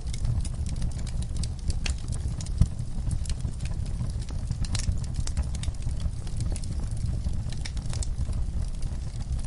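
Burning wood logs crackling and popping at irregular moments over a steady low rumble of the flames.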